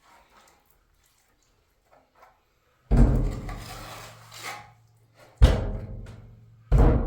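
Three heavy, deep drum hits, each ringing on with a low hum that slowly fades, after about three seconds of near quiet.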